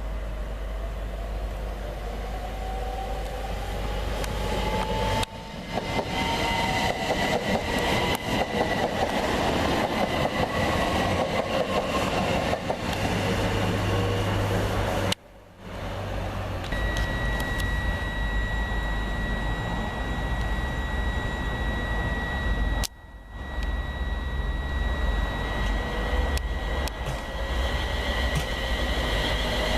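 Electric train running through the station, with a whine that rises in pitch as it speeds up. Later a steady high-pitched tone runs over the rumble. The sound drops out briefly three times.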